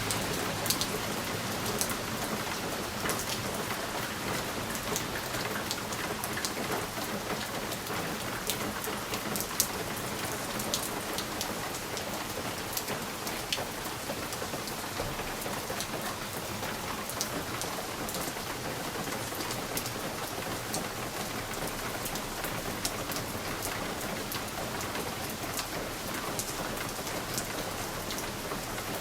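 Steady rain falling on a window pane, a constant hiss dotted with the sharp ticks of individual drops striking the glass.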